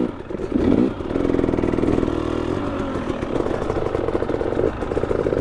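Two-stroke dirt bike engine revving hard under load on a steep climb, its pitch rising and wavering, with a short dip near the end.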